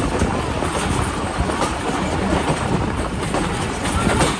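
Passenger train running along the line, its wheels rumbling and rattling steadily on the rails, with scattered clicks.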